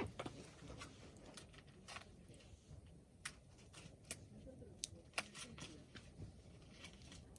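Wood fire crackling softly, with irregular sharp pops and snaps over a low steady rumble.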